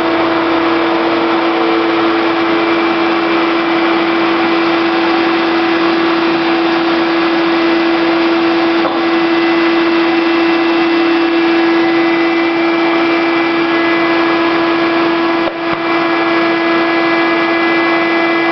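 Radial arm saw with a homemade hand-hold cutter head running together with a shop vacuum: a loud steady motor hum with a dense rushing noise, briefly dipping about fifteen seconds in.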